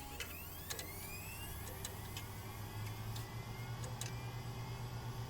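Small electric motors of a wheeled robot spinning up as it is switched on. A whine rises over the first second and a half and settles into a steady low hum, with a few light ticks.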